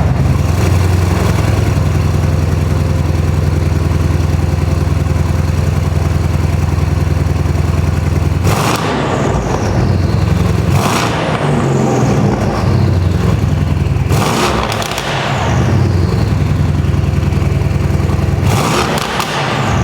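Straight-piped Mercedes-AMG C63 S twin-turbo V8, running on new downpipes with no mufflers, idling loudly just after start-up. Starting about eight seconds in it is revved four times, each rev falling back to idle.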